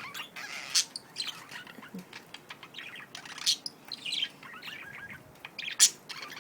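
Budgies chirping and warbling, many short high calls overlapping, with a few sharper calls standing out.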